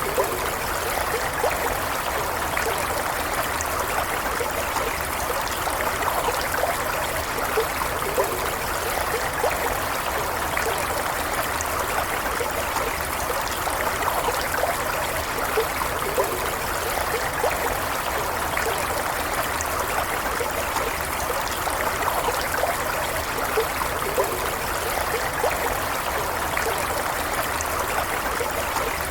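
Stream of running water flowing steadily, with a continuous rush and many small trickling splashes and bubbles.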